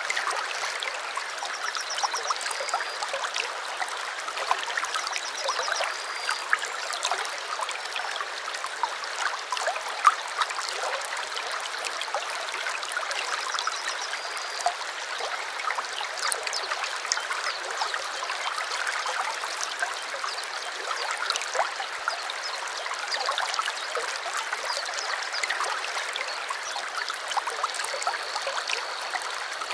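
A small stream babbling and trickling steadily, with lots of small splashing ticks. Brief high bird trills sound a few times, the last starting near the end.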